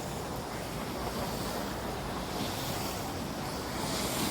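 Steady rushing noise while going down a ski slope: wind on the microphone mixed with skis or a board sliding over the snow, swelling and easing slightly.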